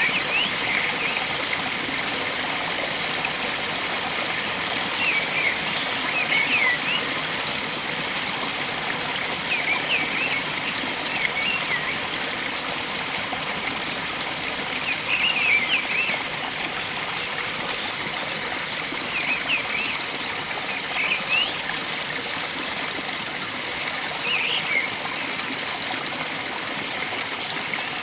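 Steady rush of flowing water, with short bird chirps every few seconds.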